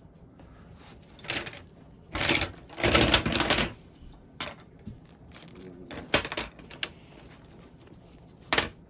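Pieces of a cat tent bed's frame clacking and rattling as they are fitted together, in a series of separate knocks and short rattles, the loudest cluster a couple of seconds in.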